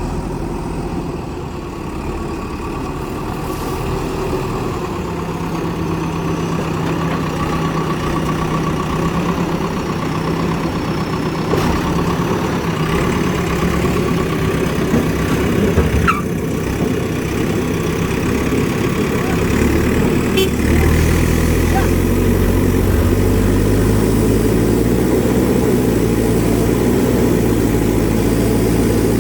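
Heavy diesel engine running steadily, becoming louder and deeper about two-thirds of the way through as it takes on more throttle.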